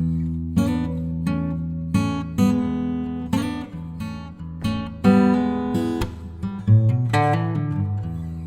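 Background music: acoustic guitar playing, with notes and chords struck every half second or so and left to ring.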